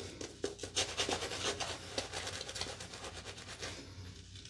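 Safety razor blade cutting through lathered stubble: a dense, crackling scrape of short strokes that thins out near the end.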